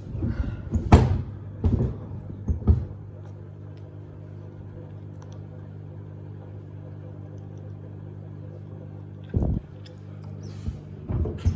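Samsung WD70T4047CE front-loading washing machine tumbling two pairs of sneakers in its drum. The drum motor hums steadily while the shoes thump against the drum several times in the first few seconds, with another thump about nine seconds in.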